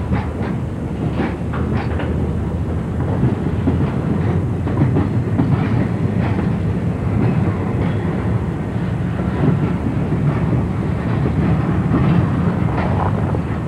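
Freight cars rolling past during a yard switching move behind an EMD SW1200 switcher, wheels clacking over rail joints above a steady low rumble.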